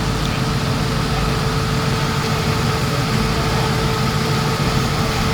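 A car engine idling steadily nearby, a low rumble.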